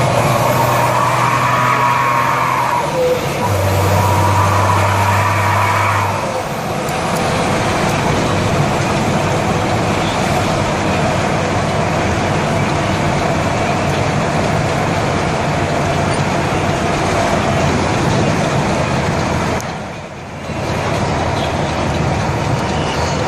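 BMC Pro 625 truck's Cummins diesel engine running through a modified 'wolf' exhaust. In the first six seconds a wavering tone rides over the engine note, which then runs steadily and drops off briefly near the end.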